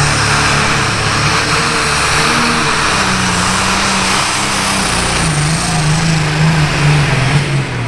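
Powerful tractor engine running loud under heavy throttle, its pitch stepping up and then back down.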